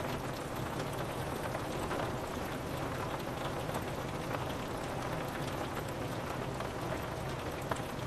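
Steady rain on a window, with many small drop ticks on the glass over a constant wash of falling rain.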